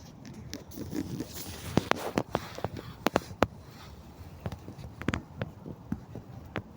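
Footsteps on the forest floor, with twigs and dry litter crackling and snapping underfoot in irregular sharp clicks. The snaps are densest and loudest in the first half.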